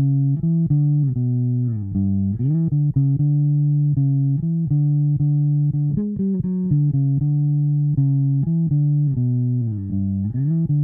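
Instrumental intro of a rock song: a bass guitar plays a repeated riff of plucked notes, mostly on one pitch, sliding down and back up twice.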